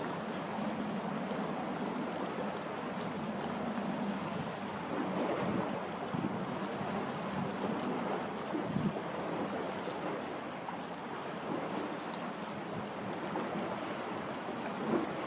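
Steady outdoor wash of wind and water noise, with a faint low hum underneath and a few scattered knocks.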